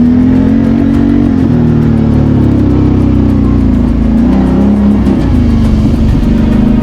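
BRP Outlander 650 ATV's V-twin engine running under way, its pitch rising and falling as the throttle is worked.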